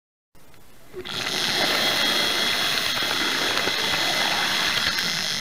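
Hornby Dublo model locomotive chassis running on three-rail track: the steady high whir of its small electric motor and wheels, setting in about a second in.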